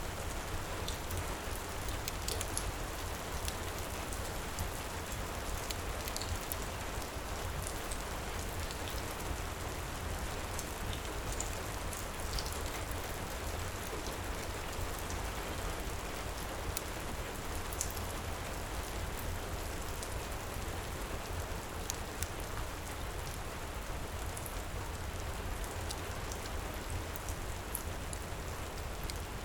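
Heavy rain pouring steadily, with scattered small crackles and pops from a wood fire in a stone fireplace.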